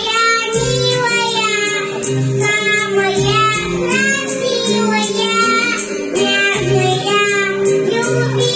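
A child singing a song in Russian over an instrumental backing track with a steady bass line.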